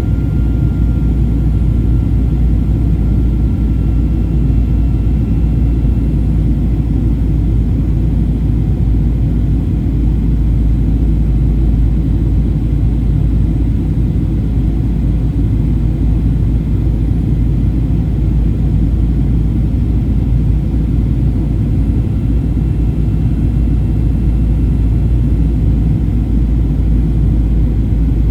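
Steady cabin noise of a Boeing 737-800 in flight: a deep, even rumble of engines and airflow.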